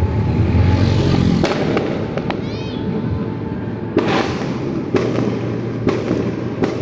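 Fireworks and firecrackers going off: a string of sharp bangs roughly a second apart, the loudest about four seconds in, over a steady background din.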